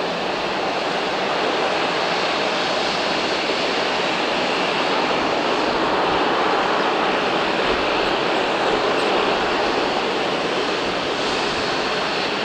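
Jet engines of a widebody airliner running, a steady rushing noise with a faint high whine that swells slightly in the middle.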